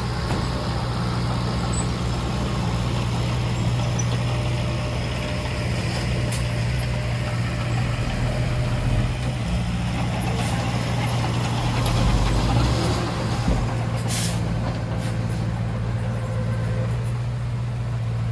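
Heavy diesel engine running steadily at constant speed, with a short hiss about fourteen seconds in.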